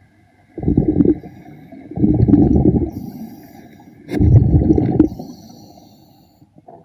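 A diver's exhaled breath bubbling out underwater in three low rumbling bursts.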